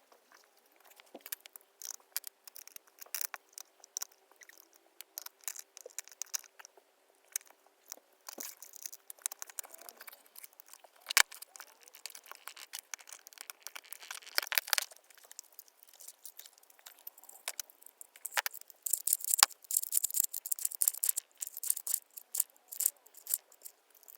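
Irregular clicks, taps and light rattles from small hard parts being handled, growing denser and sharper in the last few seconds, with a faint steady hum over the first ten seconds.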